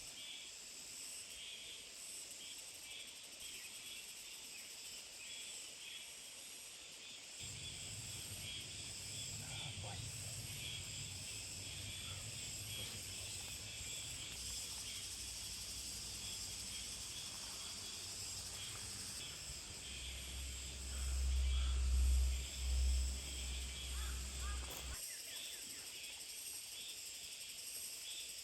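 Steady chorus of chirping insects, with a low rumble that comes in about a quarter of the way through, swells to its loudest past the middle, and drops away near the end.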